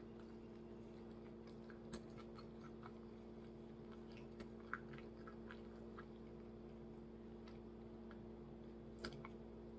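Quiet chewing of chicken: faint, scattered mouth clicks over a steady low hum.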